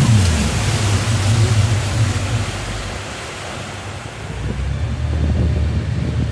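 A tow boat's engine drops in pitch as it throttles back, leaving a low engine rumble under wind buffeting the microphone and the rush of water.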